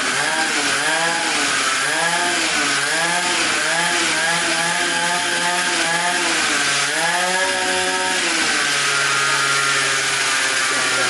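Small 50cc two-stroke engine revving, its throttle blipped up and down about once a second, then held at a steady speed for the last couple of seconds.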